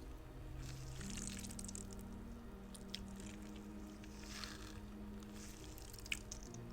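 A squishy spider fidget toy being squeezed: three or four short, soft squishes with a couple of small clicks, over slow background music with held chords.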